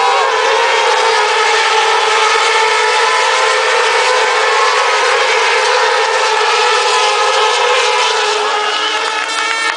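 Several racing motorcycle engines running at high revs at once, their pitches overlapping and wavering up and down as they rev and shift.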